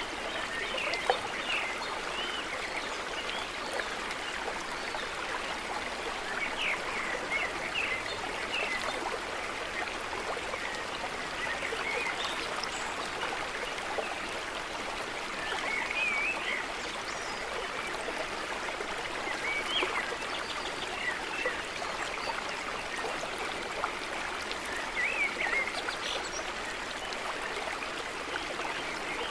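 Stream running steadily, with short bird chirps scattered throughout.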